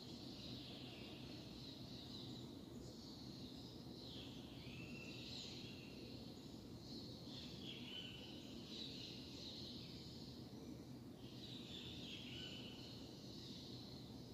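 Faint birds chirping and calling in repeated bouts over a steady low background noise.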